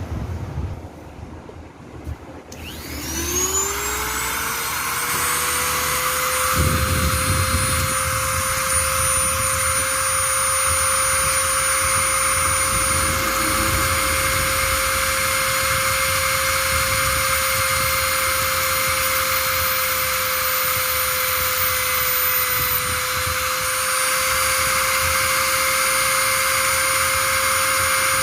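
A small electric motor switches on about two and a half seconds in, its whine rising quickly in pitch and then running steadily at a high pitch.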